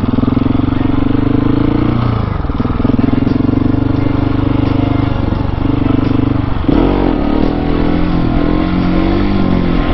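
Husqvarna 701 Supermoto's single-cylinder engine running while the bike rides along, at a mostly steady pitch. It dips briefly about two seconds in, and the pitch shifts and wavers near seven seconds as the throttle changes.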